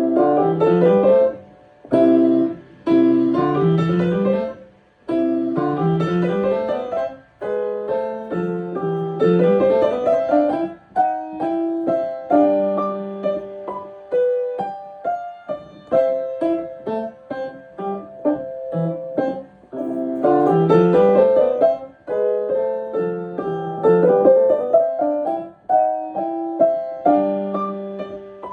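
Piano being practised: short rising runs of notes, each stopping and starting again, then a passage of held notes and melody. It starts abruptly after silence.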